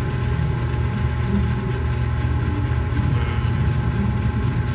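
A steady low mechanical drone with an unchanging pitch.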